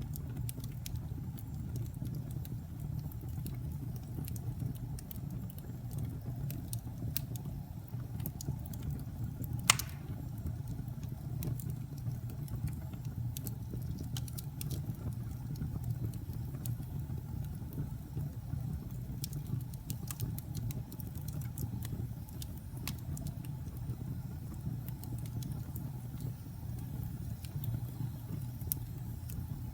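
Wood fire crackling in a fireplace: a steady low rumble of burning with scattered small crackles and one loud pop about ten seconds in.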